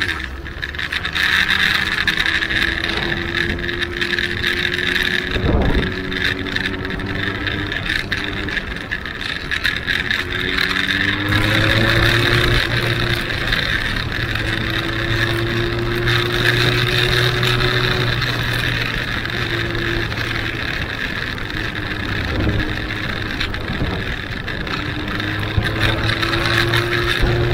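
Benelli Huanglong 600's inline-four engine running under way, its note rising slowly in several long pulls with short breaks between them, over steady wind and road hiss.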